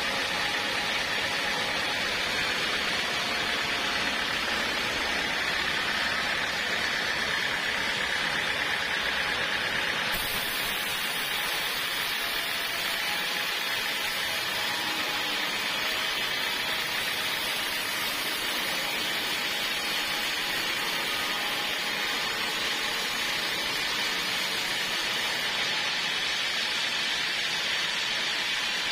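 Portable sawmill running steadily, its saw cutting timber with a dense, even noise. The sound brightens about ten seconds in.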